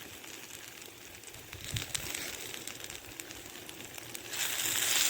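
Hot oil crackling quietly in a wrought iron skillet with a few light knocks, then about four seconds in a loud sizzle starts as marinated peppers and onions go into the hot oil and fry.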